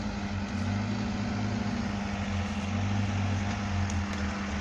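UAZ off-road vehicle's engine running steadily at low revs, its low hum wavering slightly.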